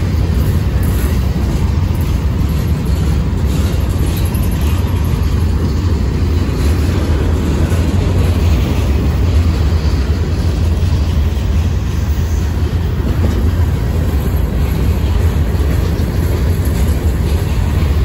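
Freight train boxcars and covered hopper cars rolling slowly past: a loud, steady, even rumble of steel wheels on the rails.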